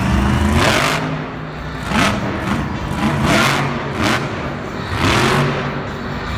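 Monster truck engine revved hard about five times, its pitch climbing and dropping with each surge.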